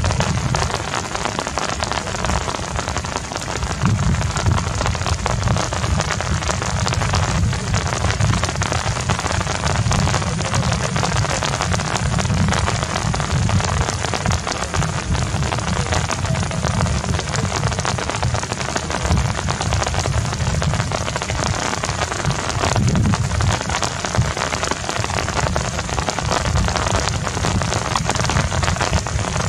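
Heavy rain falling steadily, a dense patter of drops over a low rumble.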